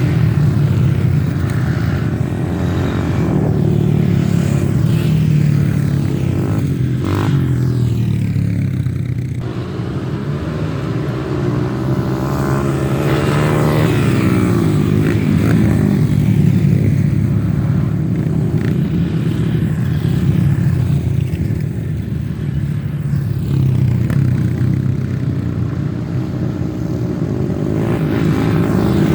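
Trail motorcycle engine running continuously, its pitch rising and falling with the throttle.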